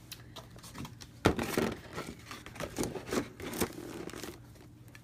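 Packaging crinkling as it is handled, in irregular rustles with one sharper crackle about a second in, dying down near the end.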